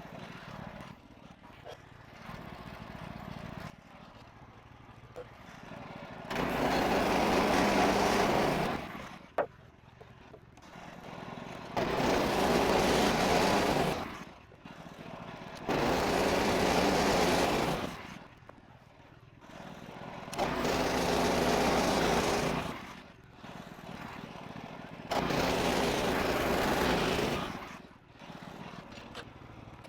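A portable bandsaw sawmill's 14 HP Kohler engine running quietly, broken five times by loud stretches of about two and a half seconds each, when the engine is at full throttle and the band blade is cutting through a maple log.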